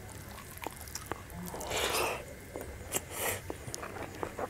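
A person chewing a mouthful of rice and buffalo meat: a run of small wet mouth clicks and smacks, with two short breathy hisses about two and three seconds in.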